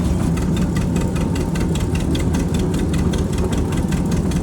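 An engine idling steadily, with a fast, even knocking beat.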